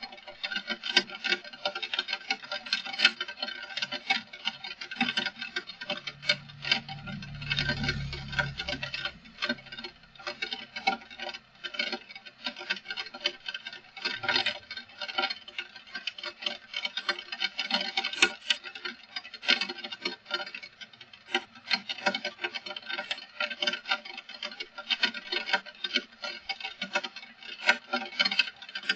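Heavy rain pattering as a dense, irregular stream of drop ticks. A low rumble rises under it about six seconds in and fades out by about ten seconds.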